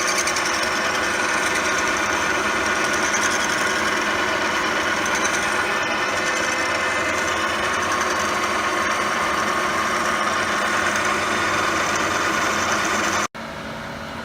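Metal lathe running under power feed while a boring bar cuts the centre hole in a steel bar-stock pulley blank: a steady mechanical whine and hum. It stops abruptly about a second before the end, leaving a much quieter steady hum.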